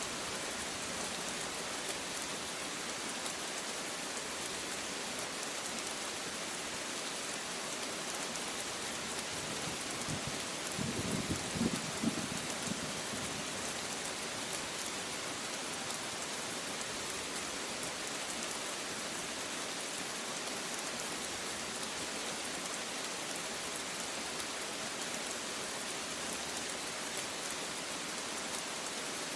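Steady rain falling, an even hiss of drops on surfaces, with a brief low rumble about ten seconds in.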